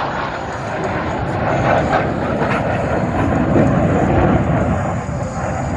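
Blue Angels F/A-18 Super Hornet jets flying past, a steady jet roar that swells a little past the middle.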